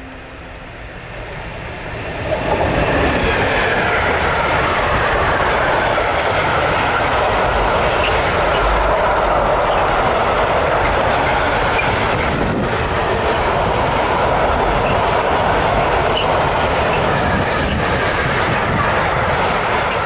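A train approaching and then passing close by. Its wheel-on-rail noise swells over the first two seconds, then holds as a loud, steady rush from about two seconds in.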